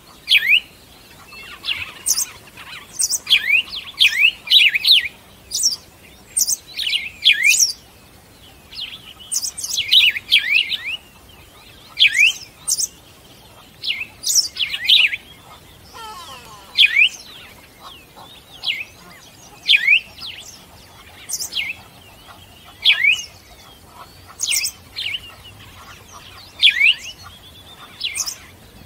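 Small bird chirping: short, sharp calls, singly or in quick runs of two or three, every second or two.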